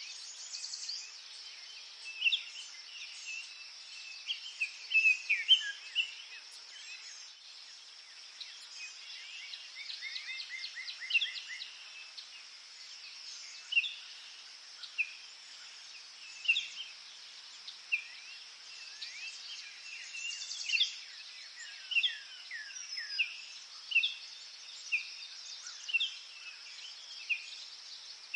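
Forest birds singing short chirps and sliding whistles, with a quick trill of repeated notes about ten seconds in. Under them runs a steady, high-pitched drone of insects.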